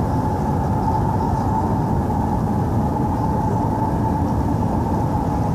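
A loud, steady low rumble with a steady tone held above it, unchanging throughout.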